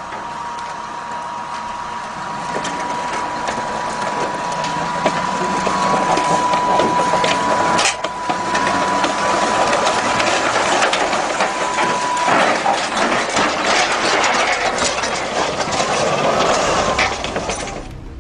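Machinery clattering and crunching, with a steady high whine that cuts off about twelve seconds in and a sharp crack partway through.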